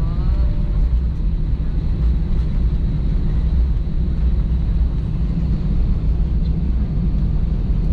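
Steady low rumble of an Airbus A320-200 moving on its engines, heard from inside the passenger cabin.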